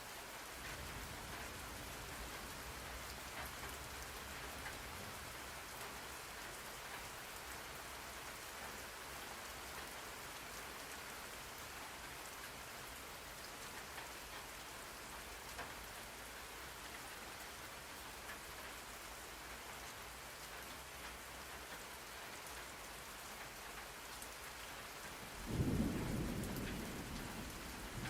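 Steady rainfall, an even hiss of rain on surfaces. Near the end a clap of thunder breaks in suddenly, then rumbles and fades.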